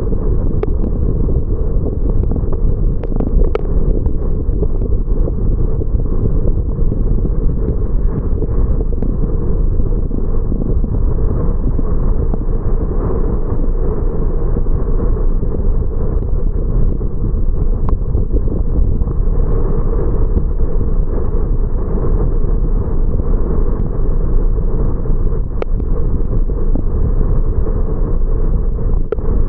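Car driving, heard as a steady low rumble of road and wind noise on an action camera's microphone, with a few faint ticks scattered through.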